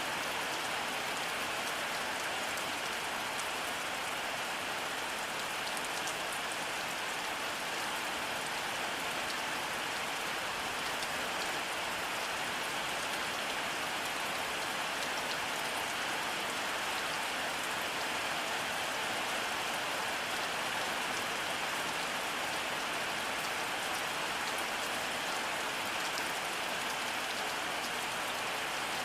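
Steady rain falling, an even hiss with faint pattering of individual drops.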